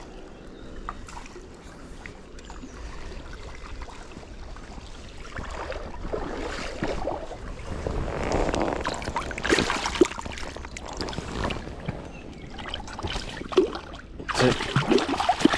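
Water splashing and sloshing as a hooked chub thrashes at the surface while it is played in. The splashing comes in uneven surges, loudest around the middle and again near the end.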